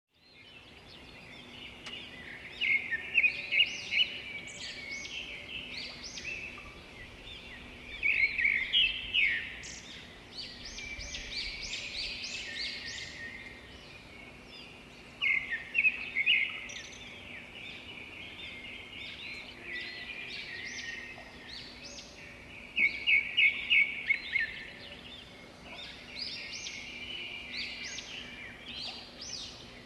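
Songbirds chirping and trilling, with loud runs of rapid chirps every few seconds, over a faint steady low hum.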